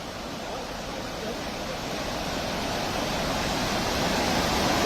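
A river in flood: a dense, even rush of floodwater that grows steadily louder.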